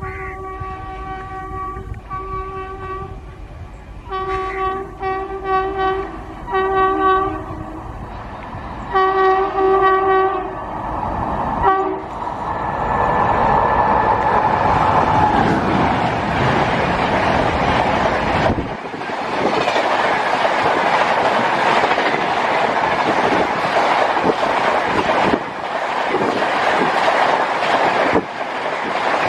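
An Indian Railways electric locomotive's air horn sounds in a series of short and longer blasts as the express approaches. About twelve seconds in, the train arrives and runs through at speed, and the coaches pass close by with a loud, steady rush and rail clatter.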